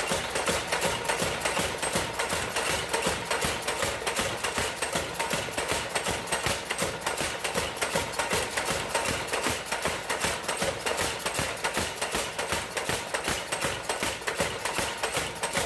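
Steady, rapid hammering on hot steel at the forge, about four even blows a second.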